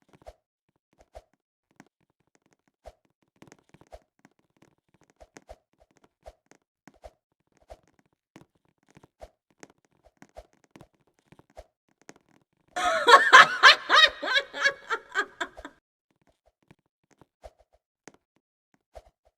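A burst of laughter about three seconds long, starting about two-thirds of the way in, with faint scattered clicks before and after.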